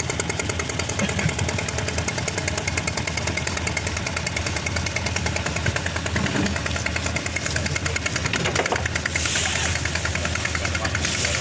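Fishing boat's inboard engine running steadily with a fast, even knocking beat. About nine seconds in there is a brief rush of hiss.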